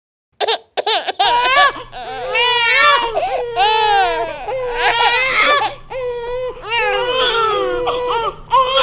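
A baby crying: high, wavering wails drawn out and bending in pitch, starting about half a second in after a moment of silence.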